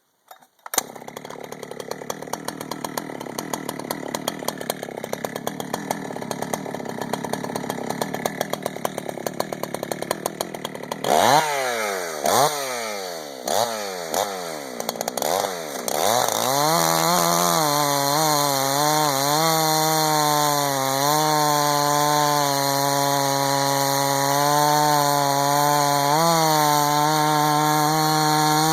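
A Husqvarna 288 XP Lite two-stroke chainsaw starts under a second in and runs at a steady low speed for about ten seconds. It is then revved several times, each rev rising and falling, and from about 16 s on it is held at high speed with slight dips in pitch, as when cutting through wood with its long 32-inch bar.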